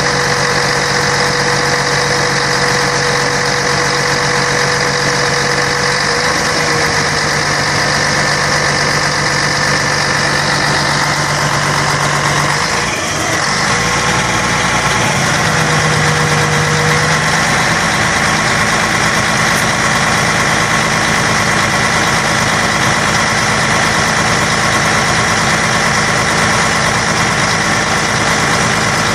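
Scania K113 bus's 11-litre straight-six diesel running steadily, with a brief dip and change in tone about thirteen seconds in.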